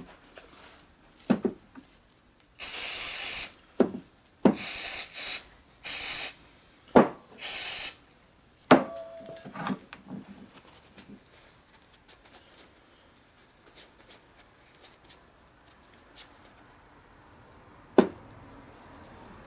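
Four short bursts of hissing spray, each under a second, during the maintenance of a mini lathe, with knocks and clicks of parts being handled between them. A single sharp knock comes near the end.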